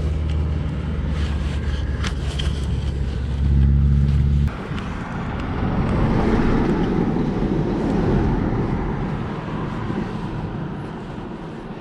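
Honda CB500X parallel-twin motorcycle engine running steadily, getting louder briefly and then cutting off abruptly about four and a half seconds in. After that, a rushing noise swells and slowly fades away.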